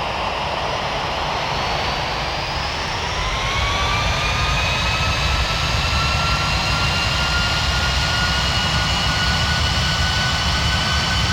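Jet airliner engine heard from inside the cabin: a steady low rumble with an engine whine that rises starting about two seconds in, then holds steady. The aircraft is a Boeing 737 MAX 9, whose engines are CFM LEAP-1B turbofans.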